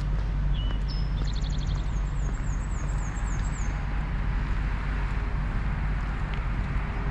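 Steady low rumble of vehicle engines and traffic, with a songbird singing a high, rapid trilling phrase for about three seconds near the start.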